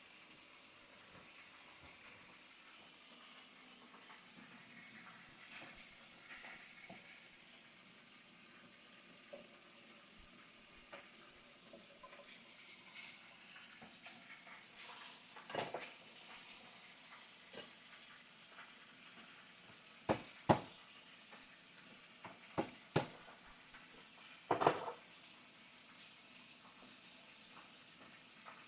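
Faint steady sizzling of food cooking on the stove, swelling to a louder hiss about halfway through. In the second half come several sharp knocks of cookware and utensils, two close pairs, with the loudest near the end.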